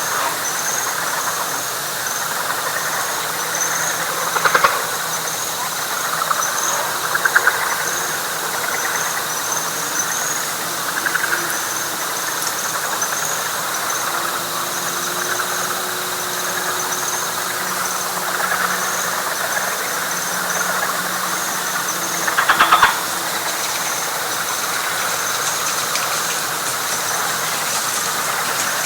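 Night chorus of frogs and insects in a wet pine flatwoods: a high insect chirping in a steady run of short pulses over a dense, rough frog chorus. A louder rattling frog call stands out about four seconds in and again about twenty-two seconds in.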